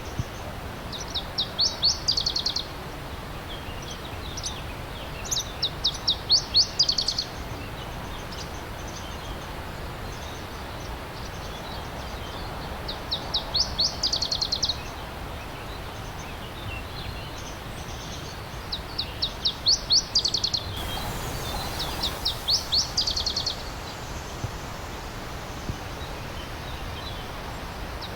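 A songbird singing five separate phrases, each a quick run of high, sharply falling notes lasting about two seconds, over the steady rush of a stream.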